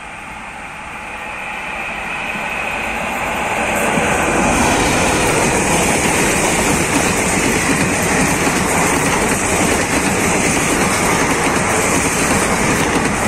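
Indian Railways express passenger train approaching and passing close by. The sound grows louder over about four seconds, then holds as the steady rush and rattle of the coaches' wheels running on the rails.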